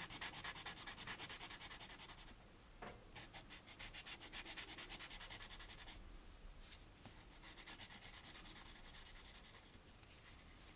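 Sandpaper rubbed back and forth over a plastic model-kit part, cross sanding to level a mold misalignment along the seam of a warp engine nacelle. Faint, quick, even strokes, about five a second, in three runs with short pauses between them.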